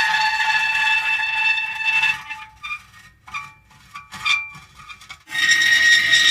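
Metal creaking: a long, high squeal with several overtones for about two seconds, then short, broken squeaks, then another long squeal that starts abruptly a little after five seconds in.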